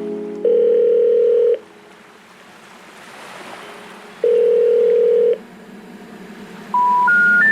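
Telephone call tones: two long, steady low beeps about four seconds apart, then three short notes rising in pitch near the end.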